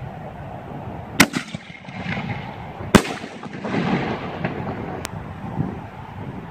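5-inch 60-gram aerial firework shells going off: two loud booms about a second and three seconds in, and a smaller crack near five seconds, with rumble and crackle between them.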